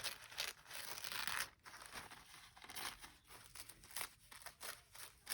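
Paper rustling and crinkling in short irregular bursts as magazine cutouts are handled, with a longer rasping stretch about a second in.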